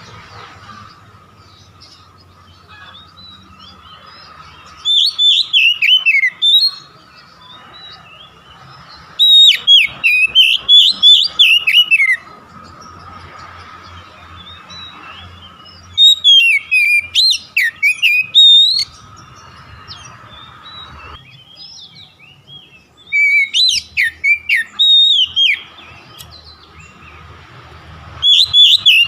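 Oriental magpie-robin (kacer) singing in loud phrases of rapid sweeping whistled notes, each two to three seconds long, four times with a fifth starting near the end, with pauses between them in which only a faint steady hum remains.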